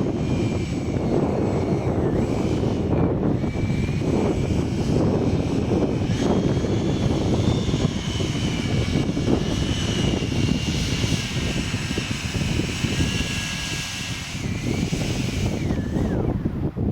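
Electric ducted-fan whine of a Freewing Me-262 RC jet in flight, drifting up and down in pitch as it flies past, over heavy wind rumble on the microphone.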